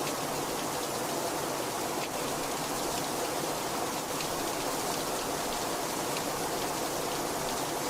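Very heavy rain falling steadily: an even hiss with faint scattered taps of individual drops.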